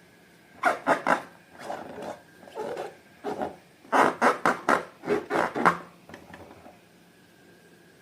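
Slime being squeezed and pressed by hand, making a run of short wet squelches and air pops. The squelches come in bursts, with a dense run of about a dozen in the second half.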